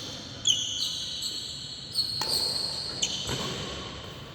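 Badminton rally: a few sharp racket strikes on the shuttlecock, with high-pitched squeaks of players' shoes on the court between them.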